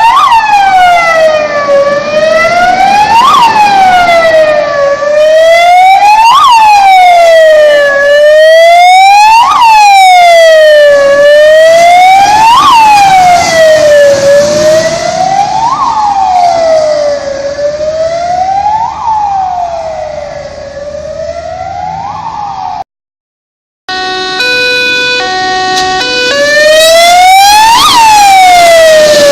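A Scania P400 fire engine's siren sounding a slow wail, rising and falling about every three seconds. The sound fades somewhat, breaks off for about a second, switches briefly to a different stepped tone, then returns to the wail.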